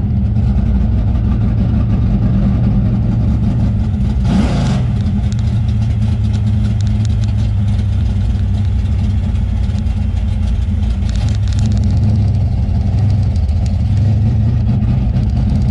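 Plymouth GTX's V8 engine idling steadily, with a quick blip of the throttle about four seconds in.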